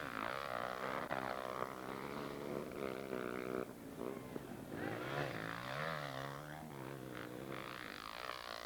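Motocross bike engines revving on a track, their pitch rising and falling through gear changes, with more than one engine note heard at once at times.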